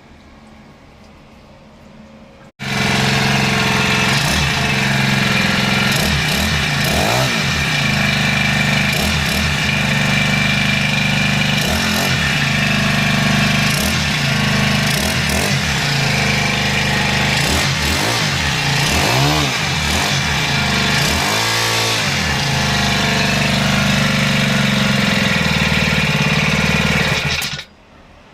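Small 35 cc, 2.2 hp four-stroke single-cylinder engine running on a test. It comes in suddenly about two and a half seconds in and runs loudly, its pitch swinging up and down several times as it is revved. It stops abruptly near the end.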